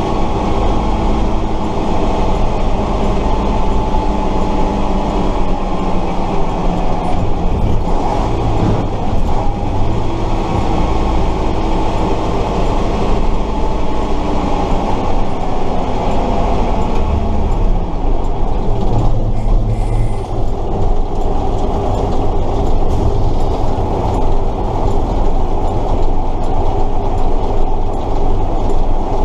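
Tatra 138 truck's air-cooled V8 diesel running under way, heard from inside the cab, loud and steady, with constant mechanical rattling from the cab and drivetrain.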